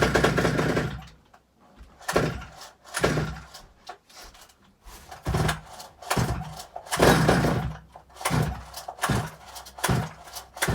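Stihl 009 chainsaw's small two-stroke engine firing in about ten short, uneven bursts on sprayed-in starter fluid, catching and dying again without settling into a steady idle. It is only somewhat alive: it runs on the starter fluid rather than on its own fuel.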